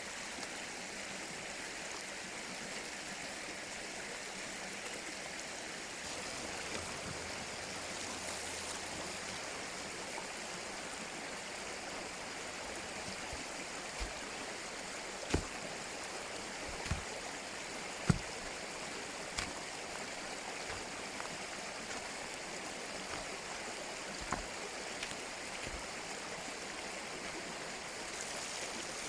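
Mountain stream flowing steadily, with about half a dozen sharp knocks in the middle stretch, one much louder than the rest.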